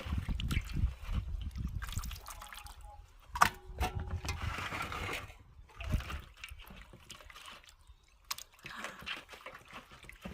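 Water splashing and trickling while food or utensils are handled, with one sharp ringing clink of metal about three and a half seconds in.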